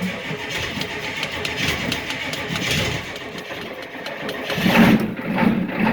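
A cold IDI diesel engine in an old Chevy Tahoe cranking over on the starter at around zero degrees, with no ether. About three-quarters of the way in it catches and fires up into a louder, steady run.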